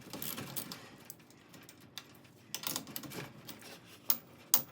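Scattered sharp metallic clicks and clinks of hand tools working on garage door torsion spring hardware, with a quieter stretch in the middle and two sharp clicks near the end.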